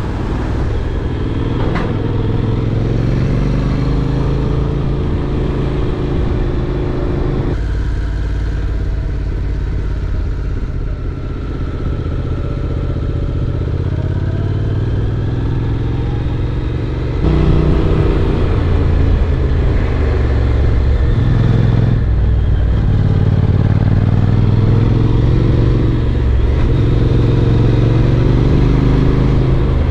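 Honda NC750X parallel-twin motorcycle engine under way, its pitch rising and falling with the revs through gear changes, over steady wind and road noise. The sound changes abruptly twice, about seven and seventeen seconds in.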